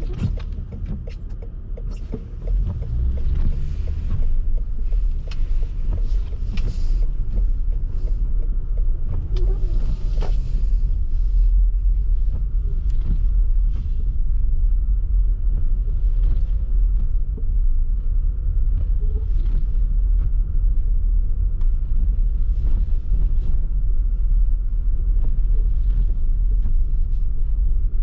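Car driving on snowy streets: a steady deep road and engine rumble, with scattered light clicks and knocks and brief hissy swishes in the first ten seconds or so.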